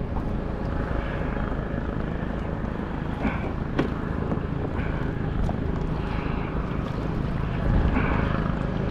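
Helicopter flying overhead: a steady low drone.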